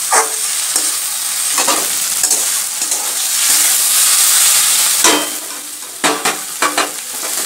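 Chopped snake gourd frying and sizzling in a steel karahi, its water cooked off, while a spatula stirs and scrapes through it against the pan. The sizzle dips about five seconds in, followed by a few quick scrapes.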